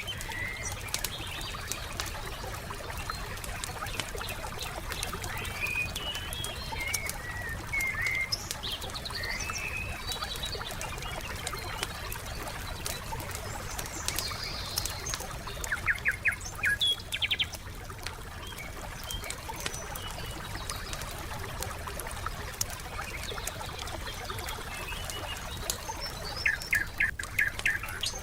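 Crackling wood fire with frequent sharp pops, while songbirds chirp and twice give a quick run of rapid notes.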